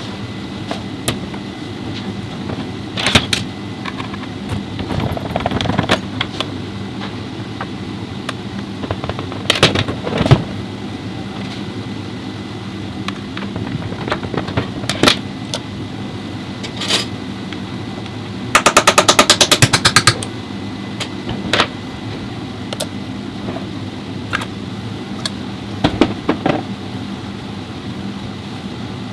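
Car repair work: a steady machine hum with scattered metallic knocks and clicks of hand tools. About two-thirds of the way in comes a loud, rapid rattling burst lasting about a second and a half.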